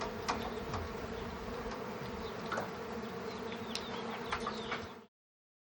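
Honeybees from a swarm buzzing steadily in the air, with a few faint clicks over the buzz; the sound cuts off abruptly about five seconds in.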